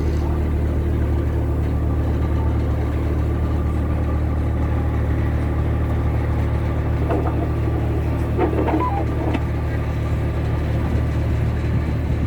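Tour boat's engine running steadily, a deep even drone heard on board.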